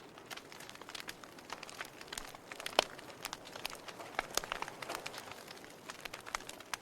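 Wood fire burning in a fireplace: irregular crackles and snaps over a steady hiss of flame, with one louder pop a little under three seconds in.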